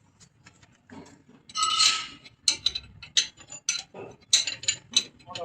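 Metal tools clinking and tapping against steel pipe fittings during refrigeration pipework repair: a string of sharp metallic clinks, about one or two a second, with a longer ringing scrape about two seconds in.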